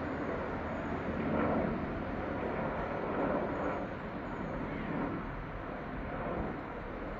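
Helicopter flying past: a steady noisy drone that swells about one and a half seconds in and again around three seconds.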